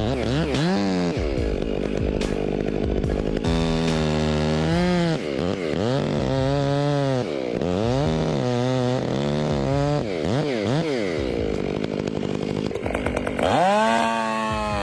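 Two-stroke chainsaw revving up and down over and over, its pitch dropping and climbing back about once a second as the chain bites into and frees from the wood. Near the end it revs up sharply to a high, steady pitch.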